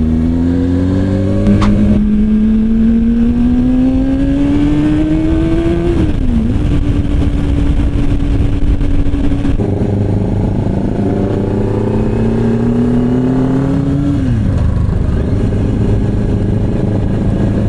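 Motorcycle engine pulling through the gears. Its pitch climbs, drops sharply at a gear change, and climbs again; there are changes about 2 and 6 seconds in, a steady stretch, then another climb that drops at a shift near 14 seconds, with steady road and wind noise underneath.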